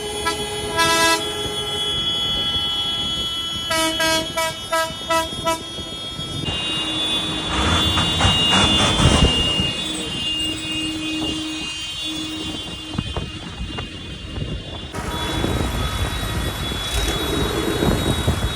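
Vehicle horns honking: long held blasts, and about four seconds in a quick run of short toots, several a second, over a background of noise.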